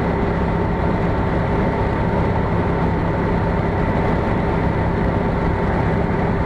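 Steady running noise of a moving vehicle: engine and road noise with a constant low hum and a higher steady whine.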